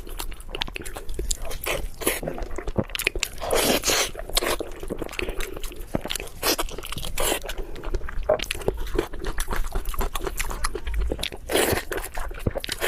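Close-miked chewing and biting of food: a steady run of wet mouth clicks and crunches, with a couple of longer slurping or sucking noises, about four seconds in and near the end.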